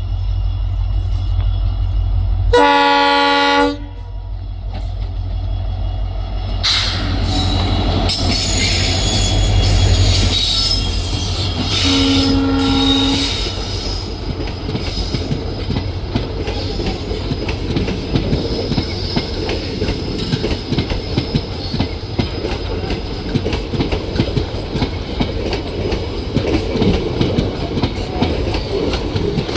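Indian Railways train running through a station. The locomotive's horn sounds twice, each blast about a second long, near the start and again about twelve seconds in. Deep rumble gives way to a high metallic hiss and then a steady clatter of wheels over the rail joints.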